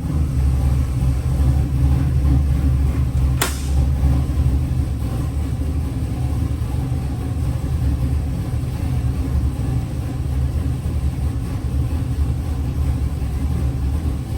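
Fuel-injected LS 441 cubic inch V8 engine running steadily on an engine dyno, a deep, even rumble, with one sharp click about three and a half seconds in.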